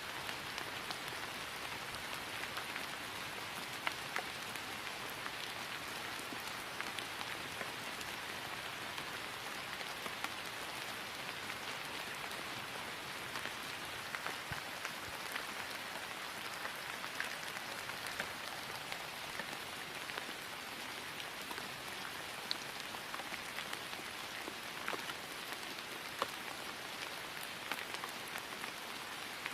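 Steady rain falling on grass, an even patter with many small drop ticks scattered through it.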